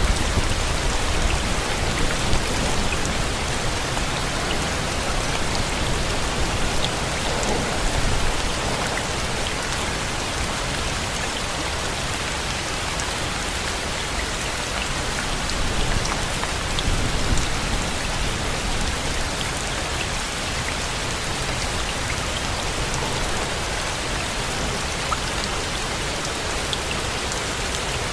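Steady rain falling and pattering on surfaces, with a low rumble that swells now and then.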